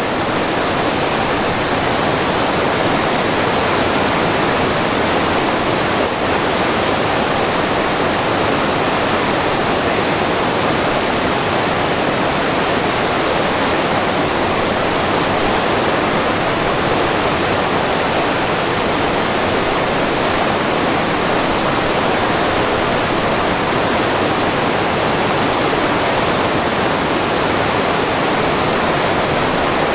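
Mountain stream water rushing, a steady, unbroken noise of running water.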